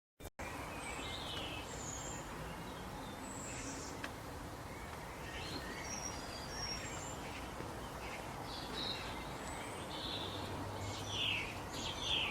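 Scattered short bird chirps over a steady outdoor background hiss, with a quicker run of louder chirps near the end.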